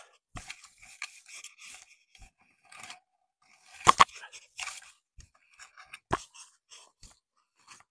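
Tender wild celery stalks being snapped off by hand, with irregular crisp crackles and rustling of the plants. The sharpest snap comes about four seconds in and another about six seconds in.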